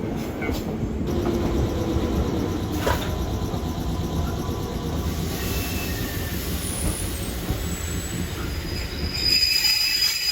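Nankai electric train running on the rails with a steady low rumble and a click about three seconds in. Near the end the wheels squeal high and loud.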